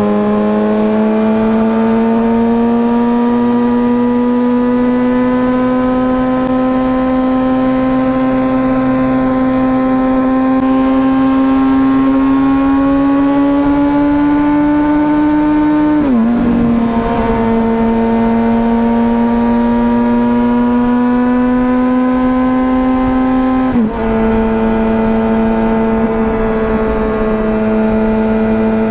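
2004 Honda CBR1000RR Fireblade's inline-four running through a Jardine titanium exhaust, heard from on board while riding. It holds a steady, slowly rising note, which drops sharply about sixteen seconds in and dips again briefly near twenty-four seconds.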